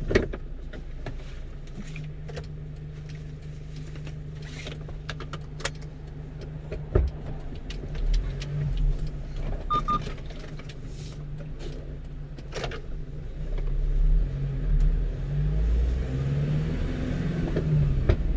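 One-ton truck's engine heard from inside the cab, running low and steady, then rising and falling in pitch as the truck pulls away and gathers speed. A sharp click at the start and a knock about seven seconds in.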